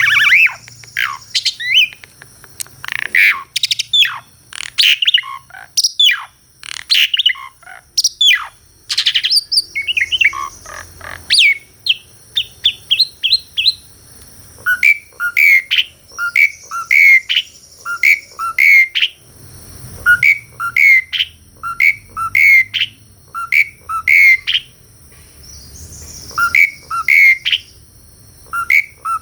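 Asian pied starling (jalak suren) singing loudly. It starts with a fast run of varied, sharply falling whistles and chattering notes, then from about halfway repeats a short two-note phrase over and over.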